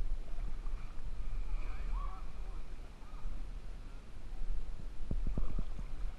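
Low rumble of wind on the microphone, with a few faint bird calls in the first half and a quick run of sharp knocks about five seconds in.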